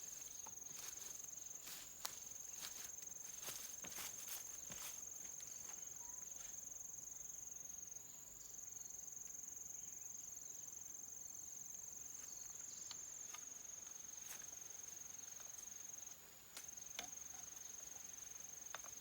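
Insects trilling in one steady high tone that breaks off briefly twice, with a few light knocks and taps in the first few seconds.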